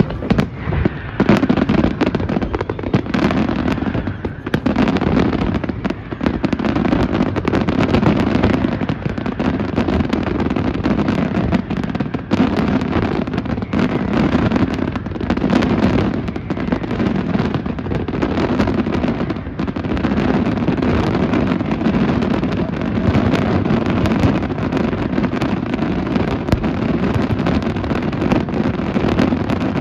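Fireworks going off in a dense, continuous barrage: many overlapping bangs and crackles with no break.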